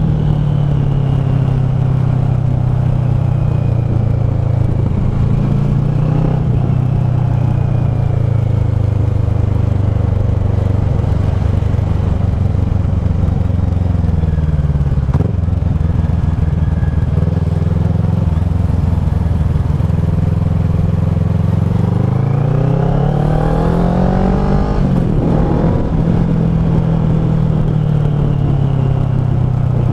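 Kawasaki ER-6f's parallel-twin engine through a Leo Vince SBK slip-on exhaust, running steadily. The pitch dips about halfway through, then rises as the engine revs up about three-quarters of the way through and drops back a couple of seconds later.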